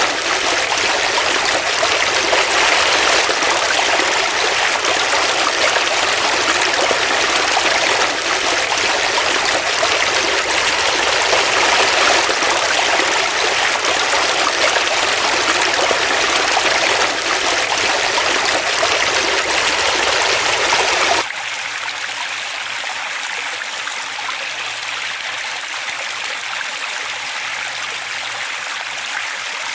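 Forest stream flowing, a steady rush of water. About two-thirds of the way through it cuts suddenly to a quieter, thinner running-water sound.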